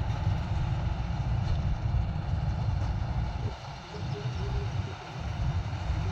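Combine harvester running with a continuous, uneven low rumble that dips briefly twice partway through.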